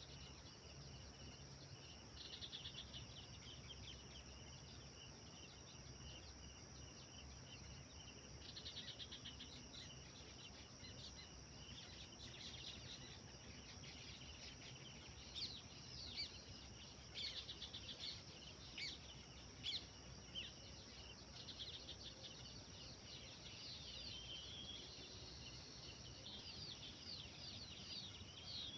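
Wild birds singing over a steady high insect drone. There are fast trills about 2 and 8 seconds in, then a run of sharp, separate down-slurred chirps in the middle, and more chirping near the end.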